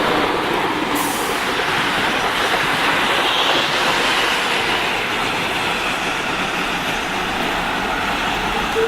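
Sydney double-deck electric passenger train running past on the rails, a steady, loud rush of wheel and rail noise.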